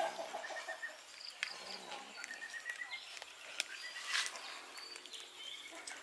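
Birds chirping in short, scattered calls while cats eat off a plate, with small clicks from the eating and one sharper knock about four seconds in.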